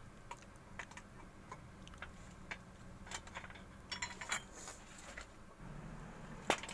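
Scattered light metallic clicks and clinks of a tool and a nut being worked onto the clutch-side shaft of a scooter engine, with a busier cluster about four seconds in and one sharper click near the end.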